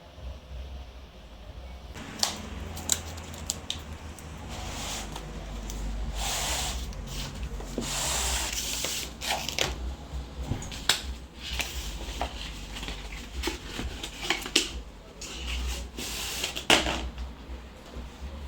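Handling noises: rustling of plastic or packaging with irregular sharp clicks and knocks, over a steady low hum.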